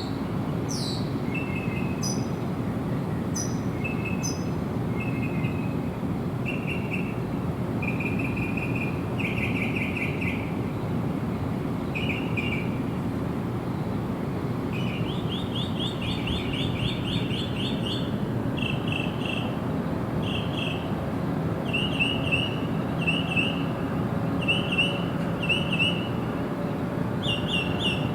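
Songbirds calling in short, repeated trilled phrases, with several calls in quick succession and more of them after the halfway point, over a steady low background rumble.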